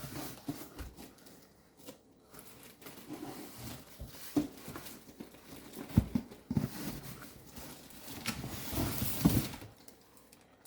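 Styrofoam packing and cardboard box being handled: irregular rubbing and scraping with a few dull knocks as a sewing machine is worked out of its packaging.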